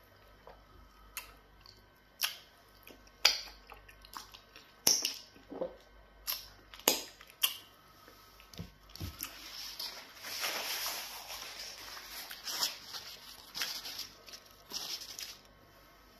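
Close-miked chewing of pounded yam fufu dipped in black soup: a string of sharp wet mouth smacks and clicks, then several seconds of denser, softer chewing noise.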